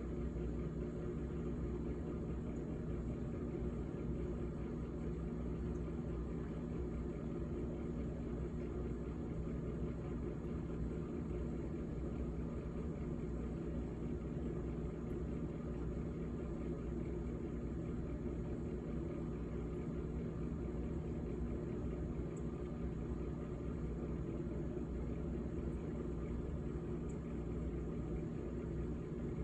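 GE GTH18XCTZRBB top-freezer refrigerator running with a steady hum and several steady low tones.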